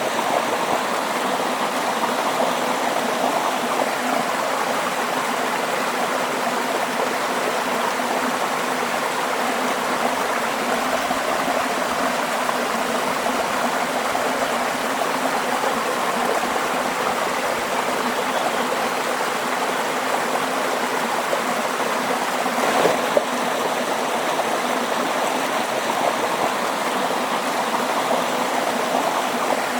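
Waterfall water rushing and splashing in a steady, even wash of sound, with one brief louder surge about three quarters of the way through.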